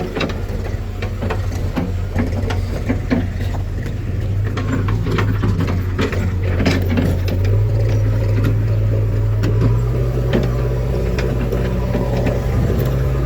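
Diesel engine of a JCB backhoe loader running, its pitch stepping up about halfway through and again near the end as it works harder, with scattered short knocks and clanks throughout.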